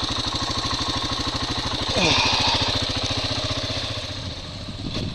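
Motorcycle engine idling with steady, even firing pulses; it swells briefly about two seconds in and gets quieter after about four seconds.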